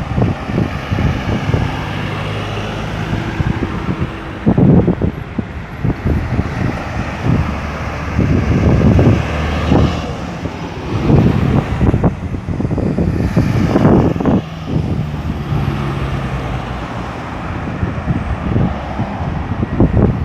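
Road traffic at a busy roundabout: cars and heavier vehicles passing close by, engines running with steady drones that come and go, over a continuous tyre-and-road rumble broken by loud swells of low thumping.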